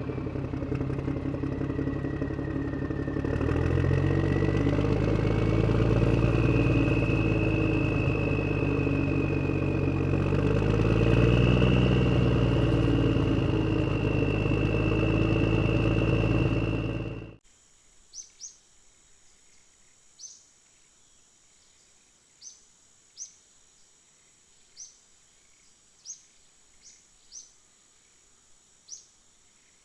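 Tractor engine sound effect running, its pitch rising and falling as it revs, then cutting off abruptly a little over halfway through. After that, faint short bird chirps come every second or two.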